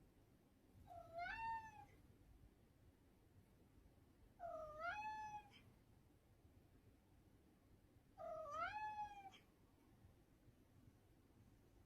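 A cat meowing three times, each meow about a second long and dipping then rising in pitch, a few seconds apart.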